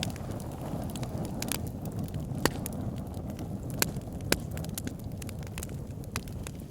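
Fire pit burning, a low steady rumble of flames under constant crackling, with three louder pops about two and a half, four and four and a half seconds in.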